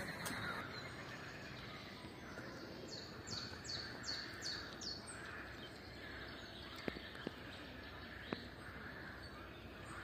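A small bird singing a quick run of about seven short, high notes, evenly spaced and lasting about two seconds, over quiet outdoor background.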